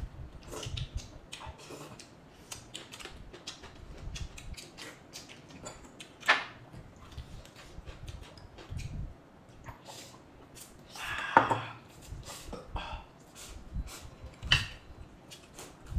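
Eating at a table: a string of short clicks and taps of tableware, with a few louder knocks about six, eleven and fourteen seconds in.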